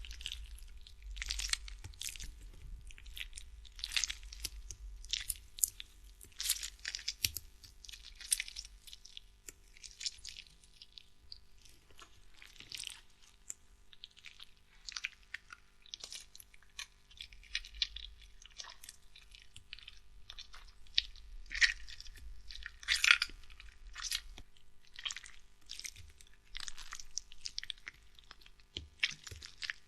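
Irregular crunching: quick crisp crunches, several a second and uneven in loudness.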